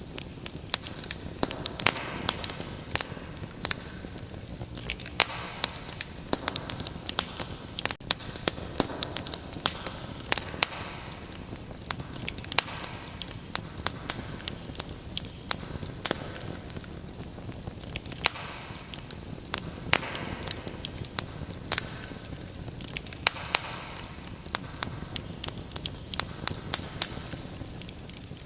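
Wood fire crackling steadily, with many sharp irregular pops and snaps over a soft low hiss.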